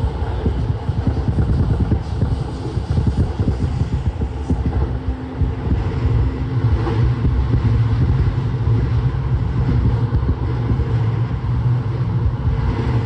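Toei 10-300 series commuter train running at speed, heard from inside the car. Wheels and running gear give a steady rumble and low hum, with a brief clatter about seven seconds in.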